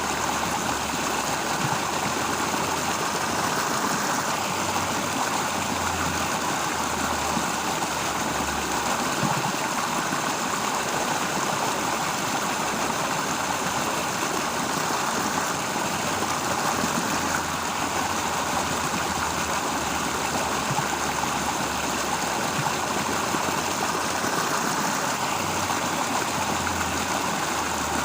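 Steady, even rushing outdoor ambience with a faint low rumble that comes and goes.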